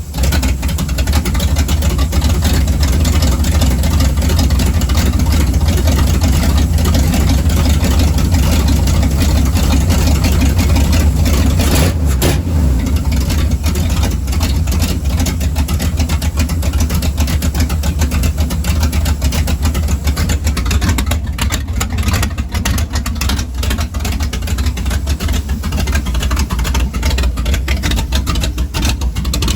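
Small-block Chevy V8 with a new Holley carburetor running steadily through its newly finished exhaust, a continuous low rumble.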